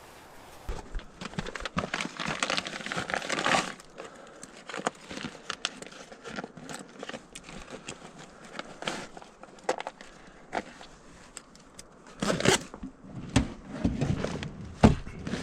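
Crinkling and rustling of camp gear being handled, with scattered sharp clicks and knocks; a louder spell of knocking and rustling comes near the end.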